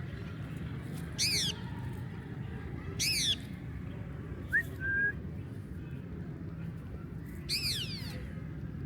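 Green parrot giving three short, harsh screeching calls spread a few seconds apart, with a brief whistled note about halfway through, over a steady low background rumble.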